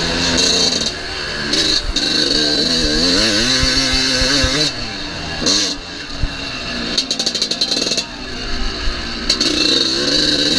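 Motocross bike engine revving up and down, its pitch rising and falling repeatedly, with sudden jumps in the sound.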